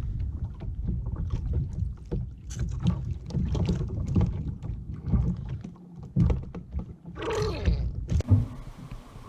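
Water moving against a fishing kayak's hull, with a steady low rumble and many small knocks and clicks on the boat. A brief louder rushing noise comes about seven seconds in.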